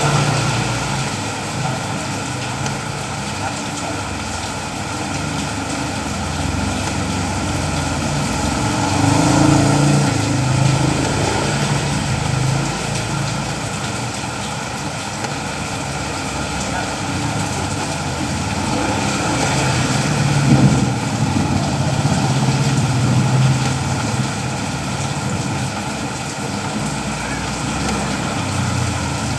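Steady rain noise over a low, continuous engine-like hum, which swells twice, about a third of the way in and again past the middle.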